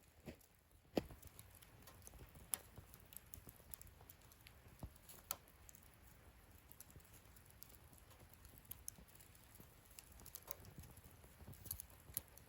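Wood fire crackling in a fire-pit stand: scattered small pops and snaps over a faint low hiss, with one sharp pop about a second in and a few snaps close together near the end.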